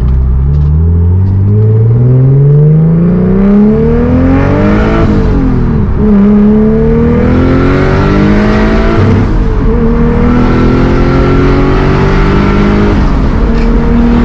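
Turbocharged BMW E30's engine accelerating hard through the gears, heard from inside the cabin. Its pitch climbs steadily, drops at upshifts about five and nine seconds in, then climbs again.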